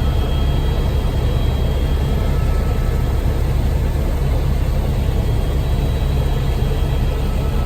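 Helicopter in flight heard from inside the cabin: loud, steady rotor and engine noise, deep and rumbling, with a faint high whine on top.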